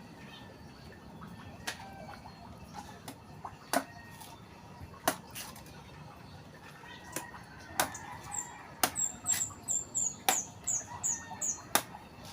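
Sharp clicks and taps at irregular intervals, with a small bird's run of quick, high, falling chirps in the second half.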